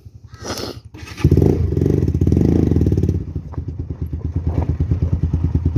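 Motorcycle engine idling, revved up about a second in for around two seconds, then dropping back to a steady idle. A brief rush of noise comes just before the rev.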